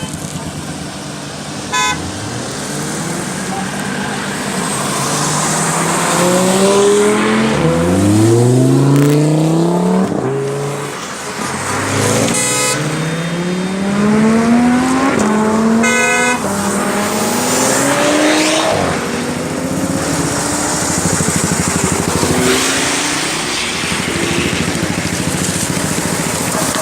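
Performance car engines accelerating hard, their pitch climbing and dropping back at each upshift, several times over. Short horn toots sound about two seconds in and twice more around the middle.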